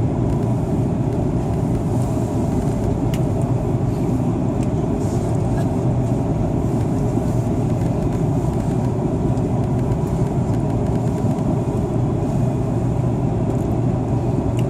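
Steady cabin noise inside an Airbus A330-300 airliner in flight: an even, unbroken rush of engine and airflow noise, heaviest in the low range.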